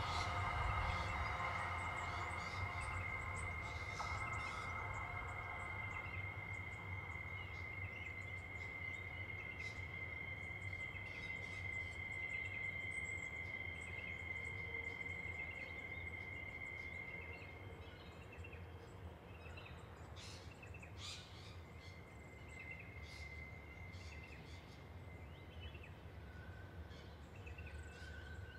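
Westbound Pacific National freight train receding: a low rumble dying slowly away, with a steady high tone that fades out about two-thirds of the way through. Scattered bird chirps sound over it.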